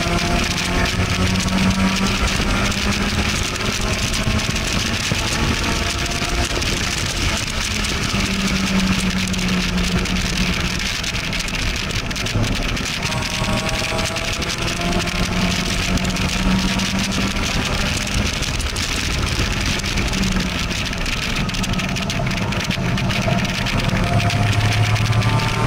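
Car engine under load at speed, with heavy wind rushing past the open cockpit. The engine note climbs steadily as the car accelerates, then drops back when it lifts or shifts, several times.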